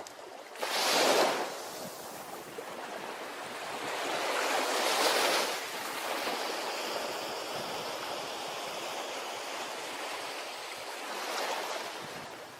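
Ocean waves breaking on a shore: a sharp break about a second in, the loudest, a broader swelling break around the middle, and a softer one near the end, with a steady wash of surf in between.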